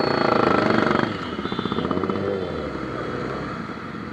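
Sport motorcycle engines running and revving, with pitch rising and falling; the sound is loudest in the first second, then drops and carries on more quietly.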